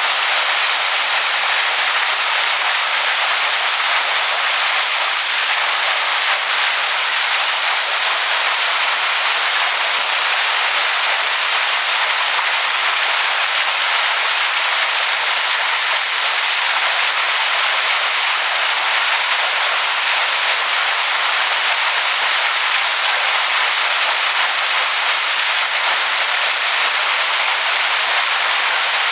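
Waterfall splashing onto rocks: a steady, unbroken hiss of falling water, bright and high-pitched with little low rumble.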